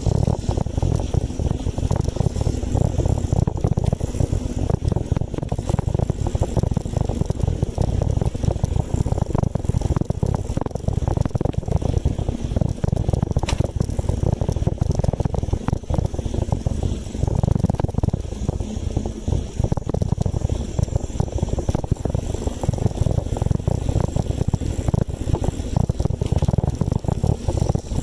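Steady low rumble of wind buffeting the microphone and tyres rolling while riding a bicycle, with one brief click about halfway through.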